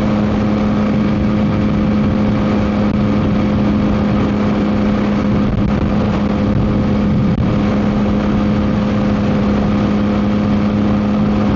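Yamaha MT-09 SP's inline three-cylinder engine through an aftermarket Dominator GP exhaust, running at a steady engine speed while cruising, under heavy wind noise on the microphone.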